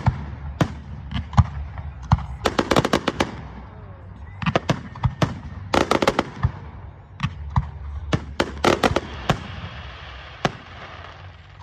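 Fireworks going off: single sharp bangs and several volleys of rapid crackling, over a steady low background.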